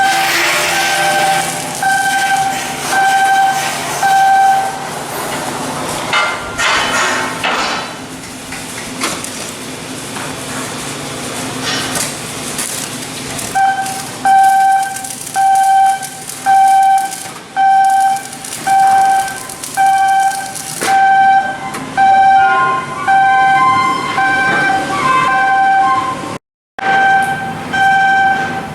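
Electronic warning beeper sounding a single tone in steady pulses, about one a second, over the clatter of shipyard work. It pauses for several seconds in the middle, where a louder burst of clatter comes, then starts up again.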